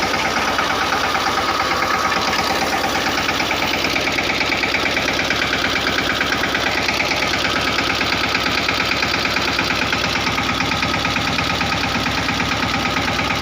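Mahindra Yuvraj 215 tractor's single-cylinder diesel engine running steadily with a fast, even chugging pulse.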